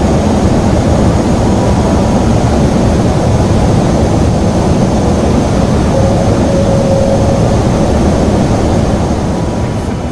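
Boeing 747 in flight during descent: a loud, steady rushing of airflow and jet engine noise, with thin steady whining tones over it. The noise eases off a little near the end.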